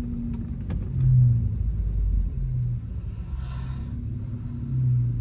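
Car engine idling with a low rumble, swelling briefly three times.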